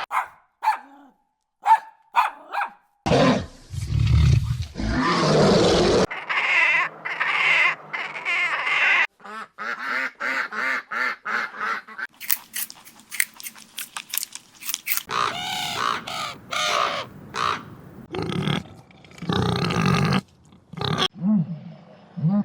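A rapid succession of wild animal calls, grunts and growls with higher-pitched calls between them, cut one after another, with a deep, loud call about three seconds in and a run of sharp clicks about halfway through.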